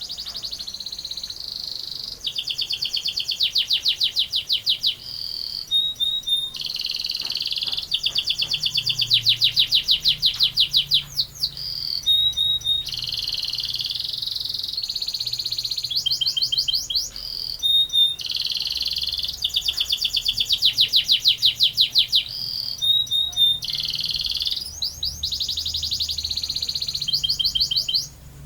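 Domestic canary singing a long, unbroken song: fast rolling trills of rapidly repeated notes alternating with held whistled tones, phrase after phrase. The song breaks off near the end.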